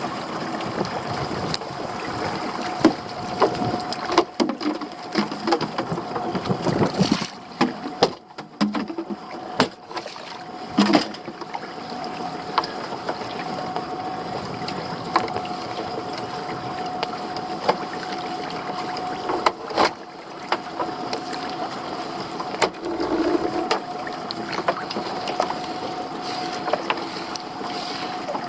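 Small boat's outboard motor running steadily, with scattered sharp knocks and clicks on deck, most of them in the first ten seconds or so.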